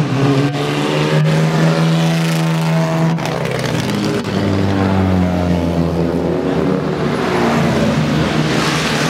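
Engine of a 1934 Riley MPH, a six-cylinder vintage sports car, running as it drives by. The engine note holds steady at first, drops lower after about three seconds, then climbs again near the end.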